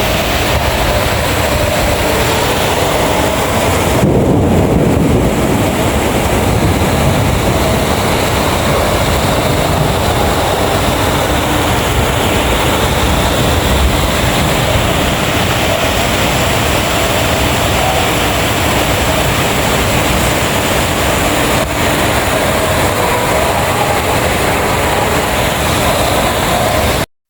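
Heavy rain pouring down in a steady, dense hiss with a low rumble underneath. The sound cuts out for a moment near the end.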